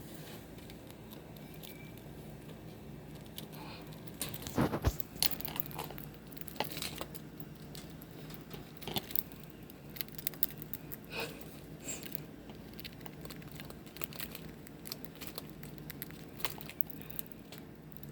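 Scattered small clicks and crinkling rustles, with a louder knock about four and a half seconds in, over a faint steady hum.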